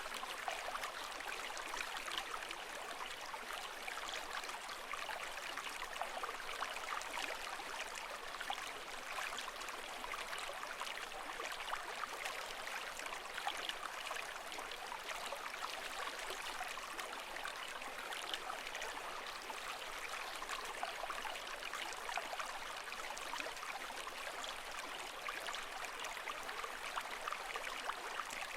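Water flowing steadily, with a dense, fine bubbling and trickling texture that stays even throughout.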